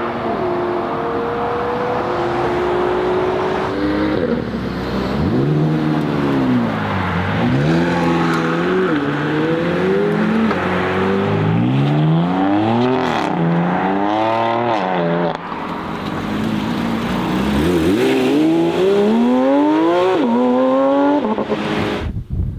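McLaren 765LT Spider's twin-turbo V8 under hard acceleration. The engine note climbs and falls back several times, then cuts off suddenly near the end.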